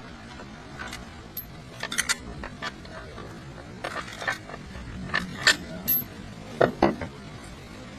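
Irregular light metallic clinks and knocks, a dozen or so short strikes with a high ring, the loudest pair about two-thirds of the way through, over a steady low background hum.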